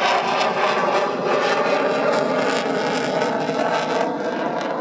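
A display jet fighter flying overhead, its jet engine noise a loud, steady roar that eases slightly near the end.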